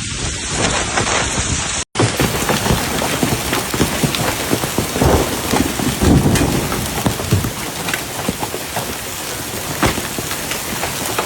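Hail and heavy rain pelting hard surfaces: a dense, loud clatter of ice stones striking. It breaks off for an instant about two seconds in and then carries on.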